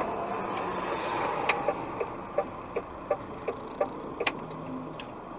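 Steady car running noise with a regular ticking, about three ticks a second, from about a second and a half in until just past four seconds.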